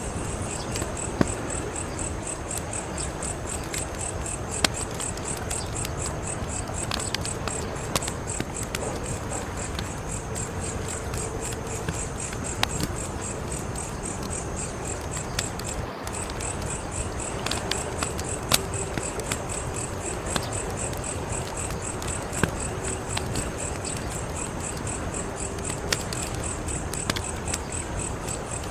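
Wood fire crackling, with sharp pops every few seconds over a steady hiss, while crickets chirp in an even, rapid high-pitched pulse throughout.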